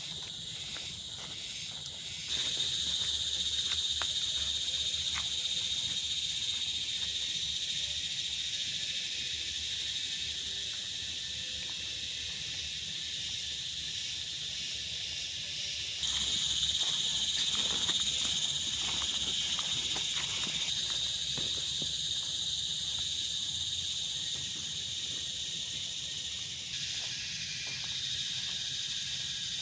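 Insects chirring steadily in a high, even drone in the woods, with scattered light clicks and snaps. The drone's loudness and texture shift abruptly a few times at cuts between clips.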